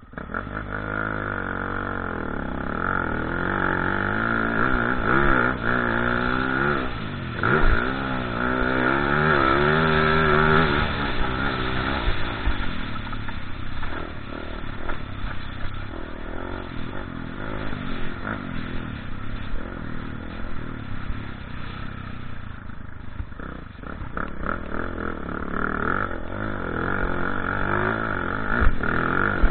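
Motocross bike engine revving up and down as it is ridden, its pitch rising and falling again and again.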